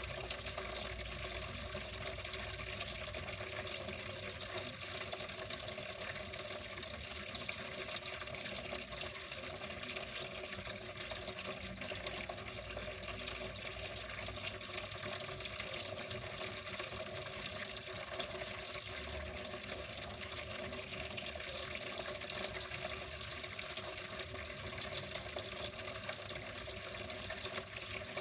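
Water running steadily without a break.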